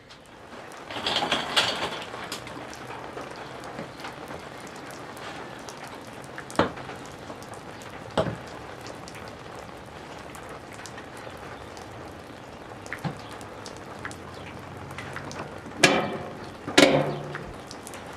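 Steady rain with many small drop ticks, broken by a few louder sudden knocks: one about a second in, two single sharp ones in the middle, and two strong ones close together near the end.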